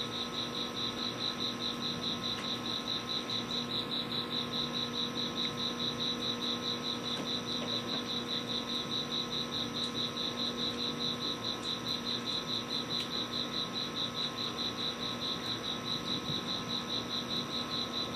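Crickets chirping in a steady, even rhythm, several high chirps a second, over a faint steady drone.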